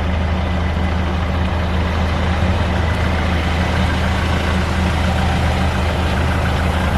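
Off-road ute's engine running steadily on the drive, a constant low drone with road noise over it.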